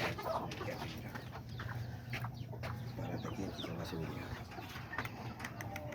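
Bantam chickens clucking in their pens, with short scattered chirps and clicks over a steady low hum.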